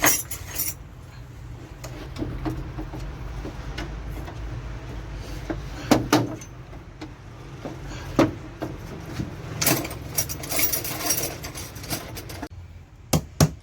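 Scattered knocks and clatter, a few sharp ones about six and eight seconds in and a cluster around ten to eleven seconds, over a steady low rumble that cuts off near the end.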